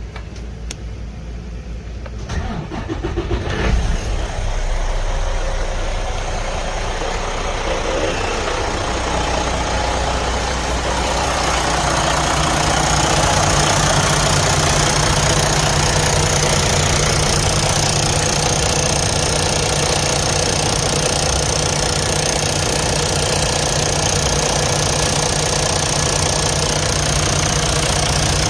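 Detroit DD15 inline-six diesel engine cranked and started, catching about four seconds in, then idling steadily and growing louder before settling. The engine's running noise is the sound of a failing fuel pump.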